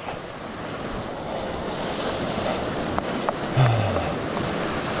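Rushing runoff water in a flooded canyon creek, a steady noisy wash, with a couple of faint clicks about three seconds in and a short low falling sound about half a second later.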